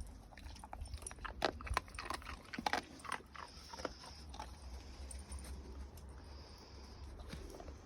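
Dogs crunching and chewing treats, with a quick run of sharp crunches over the first few seconds that thins out after about four seconds.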